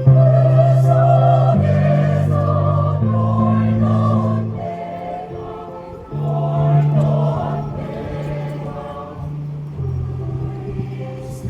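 Amateur choir singing a song in held chords over steady low notes. The phrase fades about six seconds in, and the next one begins.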